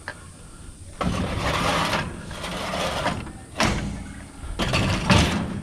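Scrap being handled and loaded: a few seconds of scraping and rustling of metal junk, with two sharp knocks partway through and near the end.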